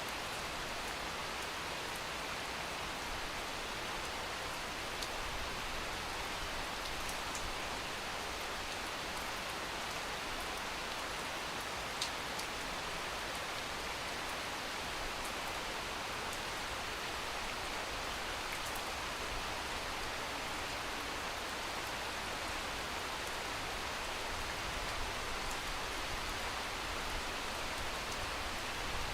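Steady rain, a continuous even hiss with scattered small drop ticks.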